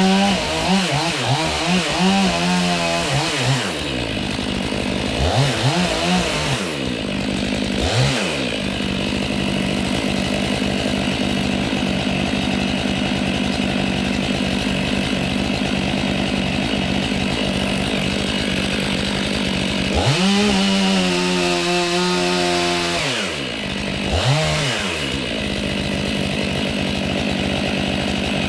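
Two-stroke chainsaw running, its engine pitch rising and falling several times in the first eight seconds and again about twenty seconds in, with a steady, even run in between.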